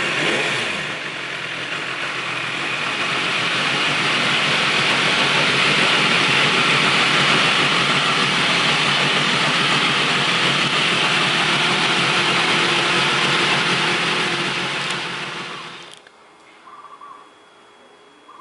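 BMW S1000RR's 999 cc inline-four engine, its revs falling back to idle, then idling steadily before it is switched off and cuts out suddenly about sixteen seconds in.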